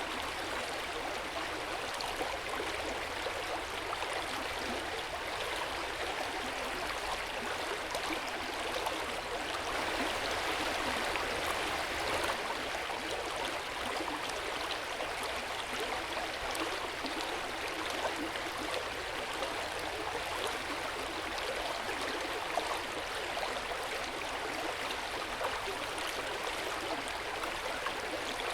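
Hot-spring water running steadily into an outdoor onsen bath: a continuous, even rush of flowing and splashing water with no breaks.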